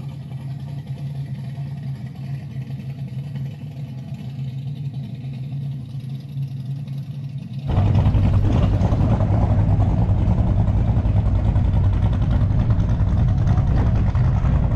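A car engine idling with a steady low hum. About eight seconds in, the sound suddenly gets louder and rougher, and near the end the pitch rises slightly as the engine speeds up a little.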